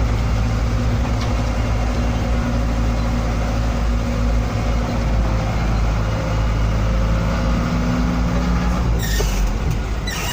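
Truck engine running steadily with a low drone, and a short hissing burst about nine seconds in.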